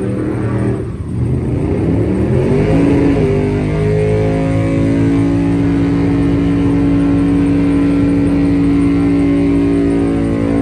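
Truck engine revving: the revs climb over about two seconds, then hold steady at high revs.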